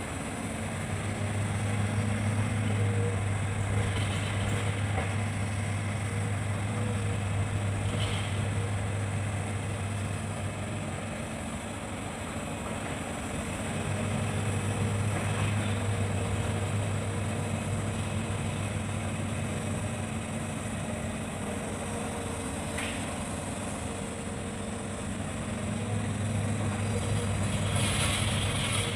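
Hitachi hydraulic excavator's diesel engine running steadily, swelling louder three times as it works under load, with a few short cracks or knocks along the way.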